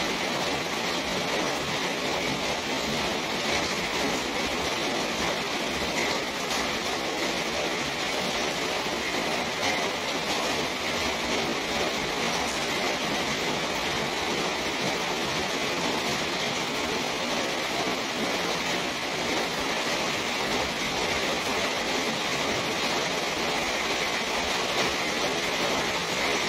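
Steady rain falling on a small garden, an even hiss that does not let up.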